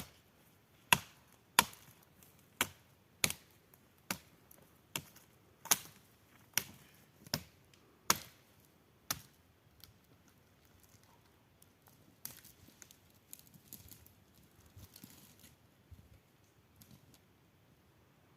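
An axe chopping into wood: about a dozen sharp, evenly paced blows, a little under one a second, for the first nine seconds. After that come fainter scattered crackling and rustling sounds.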